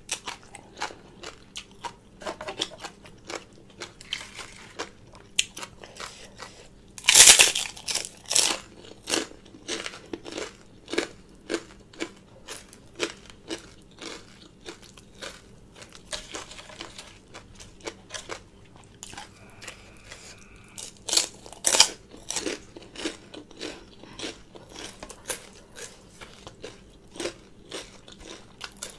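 Eating sounds: crunchy chewing of pork rinds and green papaya salad, a steady run of small crunches with a few louder bites, the loudest about seven seconds in and again a little after twenty seconds.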